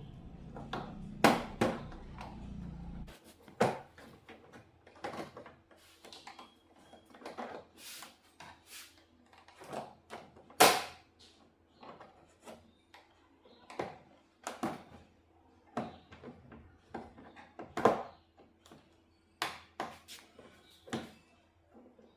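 Irregular clicks and knocks of hands and tools handling a flat-screen TV's parts during repair, two of them sharper and louder than the rest. A low steady hum stops about three seconds in.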